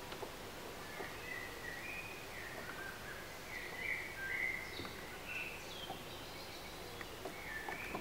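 A songbird singing phrases of short whistled notes, loudest about four seconds in and starting again near the end, over a steady background hiss of outdoor ambience at a lake.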